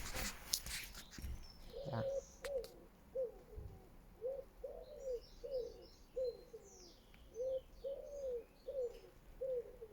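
Birds calling: a run of about a dozen short, low notes, evenly spaced, starting about two seconds in, with faint high chirps in the middle.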